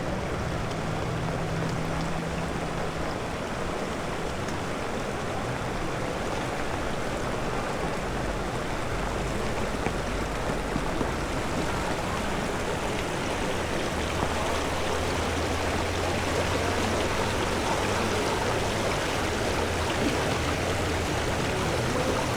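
Steady rush of fast-flowing floodwater, a swollen stream or river running high, growing a little louder in the last third.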